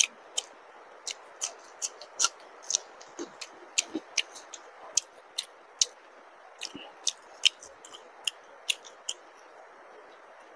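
Close-up chewing of luchi (puffed fried bread) with green chilli: a run of sharp, wet mouth smacks and clicks, two or three a second, stopping about a second before the end.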